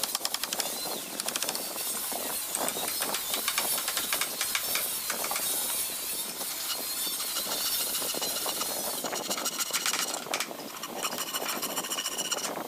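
A woodworking tool working on wood: a loud, dense rasping hiss thick with rapid clicks, with a faint whine near the end.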